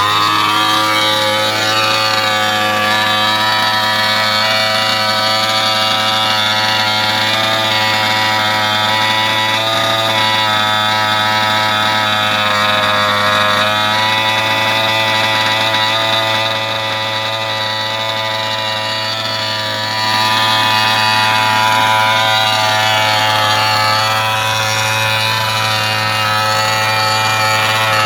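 36 cc two-stroke petrol engine of a 1/5-scale Dragonhammer II RC car running on its first start, holding a fairly steady speed with small rises and falls in pitch. It drops a little in loudness about sixteen seconds in and comes back up about twenty seconds in.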